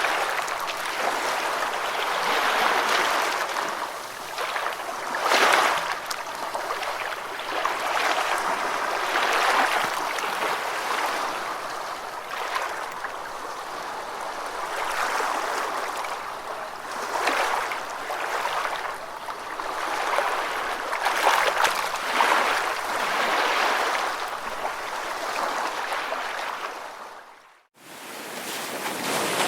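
Ocean waves breaking and washing on a shore, a rushing sound that swells and eases every few seconds. Near the end it fades out to nothing for a moment, then comes back.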